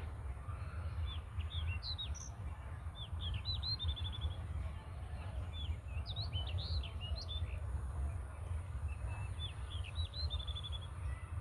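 Birds chirping in many short, quick notes, now and then breaking into a fast trill of repeated notes. A steady low rumble runs underneath.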